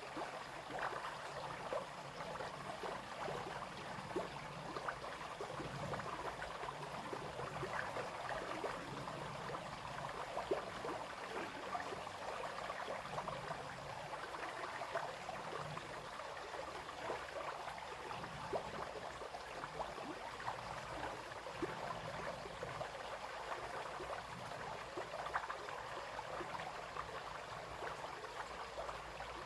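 Small brook babbling and splashing steadily, with many small trickles over stones.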